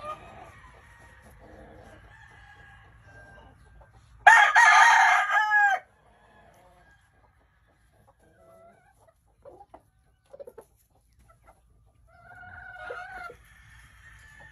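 Rooster crowing: one loud crow about four seconds in, lasting about a second and a half and ending in a falling note, then a fainter crow near the end, with short scattered clucks between.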